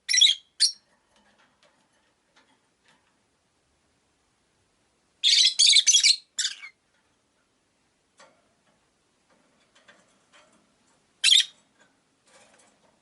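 Rosy-faced lovebirds giving shrill, sharp calls in short bursts: two calls at the start, a rapid run of calls about five seconds in, and a single call near the end, with faint small sounds between.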